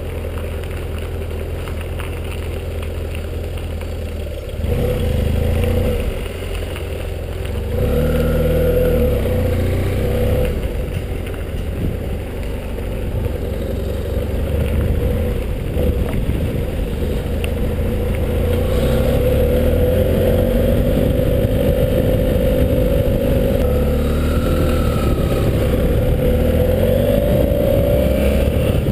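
Motorcycle engine running at low speed, then accelerating and getting louder in steps, with the pitch rising each time it pulls through a gear.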